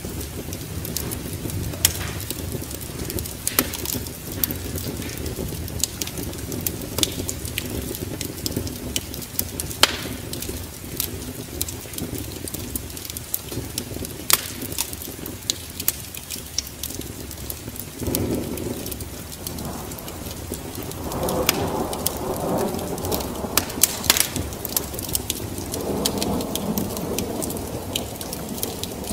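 Wood fire crackling with frequent sharp pops over a steady low rumble. Three swells of rushing noise come in about 18, 21 and 26 seconds in.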